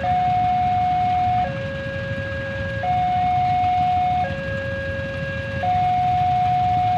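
Railway level-crossing warning alarm sounding a steady two-tone electronic signal, switching between a higher and a lower tone about every one and a half seconds, which warns that a train is approaching. A low rumble runs underneath.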